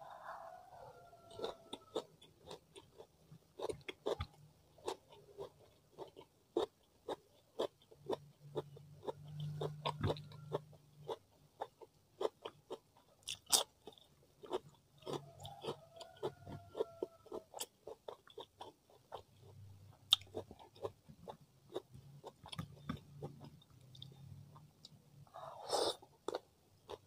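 Close-up chewing and biting as a person eats rice, chicken and crisp crackers by hand. There are many short crunches and wet mouth clicks in quick, irregular succession.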